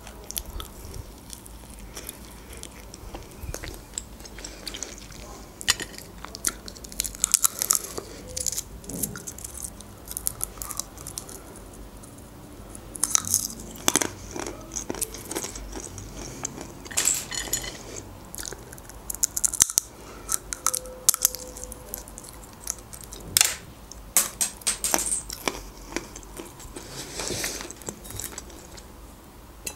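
Close-up eating sounds: chewing, with irregular clusters of sharp crunches as dry snack food is bitten and chewed.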